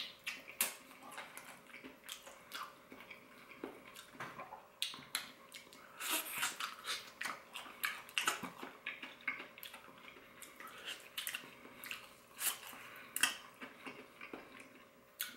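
A person biting into and chewing extra-crispy fried chicken glazed in spicy honey barbecue sauce: irregular crunchy chewing clicks, a few louder crunches every second or so.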